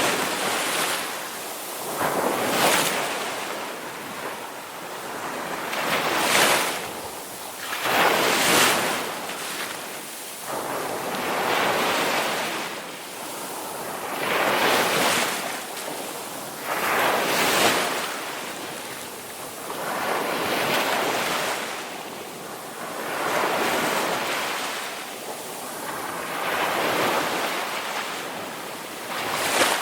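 Ocean waves breaking and washing in, one surge after another every two to three seconds, each swelling to a hiss of surf and falling away.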